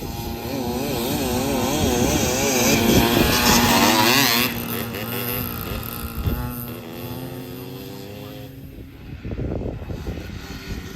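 Dirt bike engine, a 125 cc two-stroke, revving up and down as the rider works the throttle around the track. It is loudest as it passes close by about two to four seconds in, drops away sharply just after, and swells again briefly near the end.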